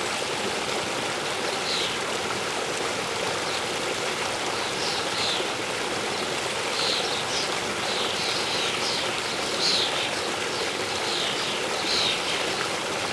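Steady rush of a waterfall, with small birds giving short falling chirps, often in quick runs, over it.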